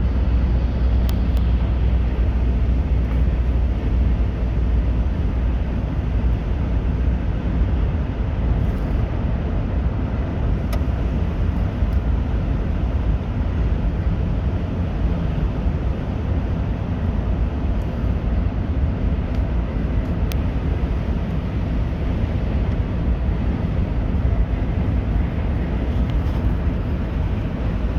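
Steady road and engine noise heard from inside a car cruising at highway speed, a constant low rumble with tyre hiss, and a few faint ticks.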